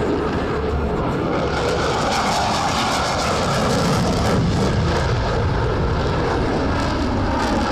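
Jet noise from Thunderbirds F-16 fighters flying past: a loud, steady roar that rises to its loudest about four seconds in, then eases a little.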